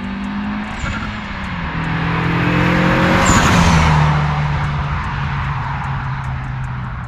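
Mitsubishi Lancer Evolution IX's turbocharged four-cylinder engine revving up, with a loud rushing noise about three seconds in as the engine note tops out, then a steadier engine note slowly falling in pitch.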